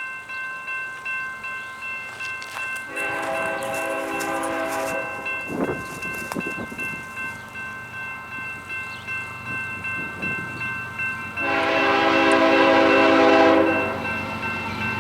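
Freight diesel locomotive horn sounding two long chorded blasts, one about three seconds in and a louder one near the end, over a steady high ringing.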